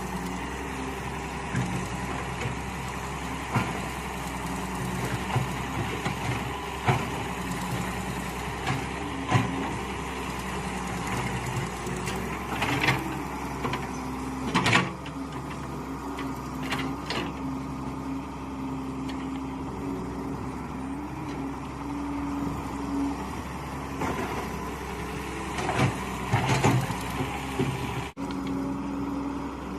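Mini excavator engine running steadily, with scattered knocks and clanks as it digs.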